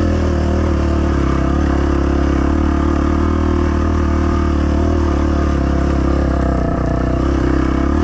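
A 250 cc dirt bike's engine running steadily at an even pitch while being ridden.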